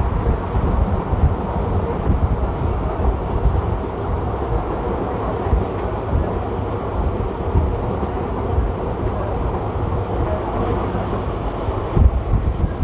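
Passenger train running along the track, heard from an open coach doorway: a steady rumble of wheels on the rails mixed with gusty wind noise, with one louder knock near the end.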